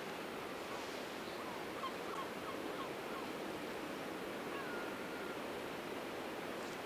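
Steady rush of ocean surf breaking on a beach, with a few faint short bird calls between about two and three and a half seconds in and one longer drawn-out call near five seconds.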